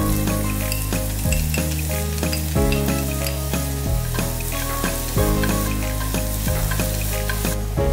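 Minced shallots sizzling in hot oil in a wok, the hiss starting as they go in and running on while they are stirred with chopsticks, then dropping away shortly before the end.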